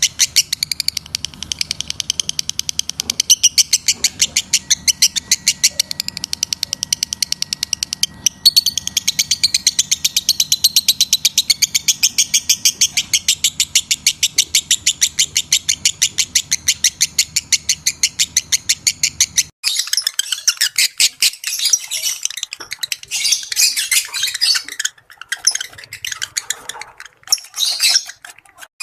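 Lovebird in breeding condition chirping: a fast, even string of sharp high chirps, about five a second. About two-thirds of the way through it changes to more irregular chattering.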